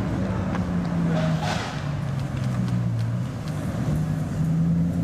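Bugatti Chiron's quad-turbo W16 engine running at low revs as the car drives slowly by. Its pitch drops about two seconds in and rises again near the end, with a brief hiss about one and a half seconds in.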